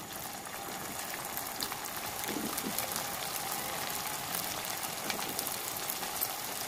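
Soya chaap pieces deep-frying in hot oil: a steady sizzle with fine crackling that grows louder over the first couple of seconds as more pieces go into the pan.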